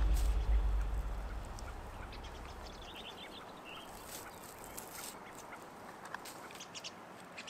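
Background music fading out, then faint outdoor quiet with a short run of bird calls about three seconds in and a few light clicks.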